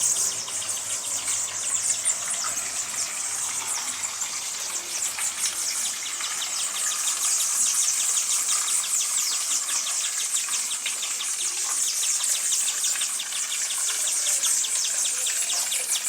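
Hummingbirds calling: a dense high-pitched twittering of fast chirps, joined about six seconds in by a rapid, regular run of ticking chips.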